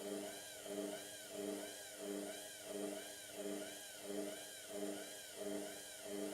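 Indesit MTWC71252WUK washing machine running its Cotton 30 cycle, the drum turning steadily with a motor hum and whine that swells and fades in an even pulse, about one and a half times a second.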